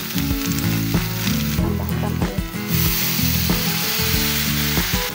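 Ground spice paste sizzling as it fries in oil in a wok. The hiss grows louder in the second half as water is poured into the pan. Background music plays throughout.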